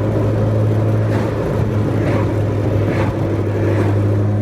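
A car's engine droning steadily at a constant pitch, with road noise, heard from inside the cabin while driving.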